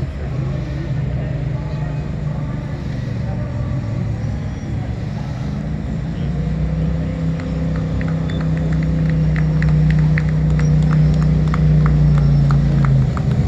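A rally vehicle's engine running steadily with a low rumble. It grows louder from about halfway, and a quick run of sharp ticks joins it in the second half.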